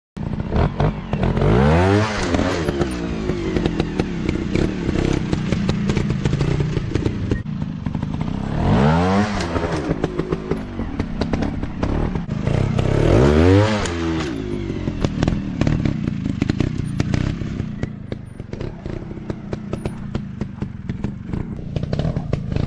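Dirt bike engine running and revving hard, climbing and falling in pitch three times, with rattling and knocks throughout.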